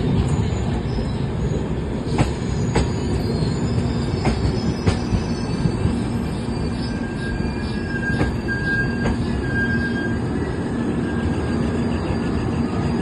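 Train running on the rails: a steady rumble of wheels with scattered sharp clacks over rail joints and a faint, thin wheel squeal that comes and goes in the second half.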